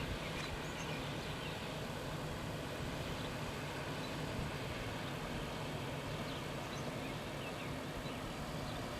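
Steady outdoor background noise with wind rumbling on the microphone and a few faint, short, high chirps.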